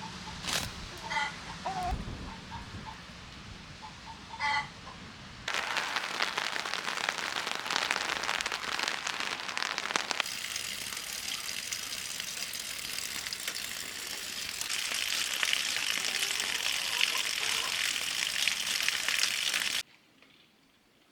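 Hens clucking in short calls for the first few seconds. After an abrupt change, a steady rushing hiss fills most of the rest and cuts off suddenly near the end.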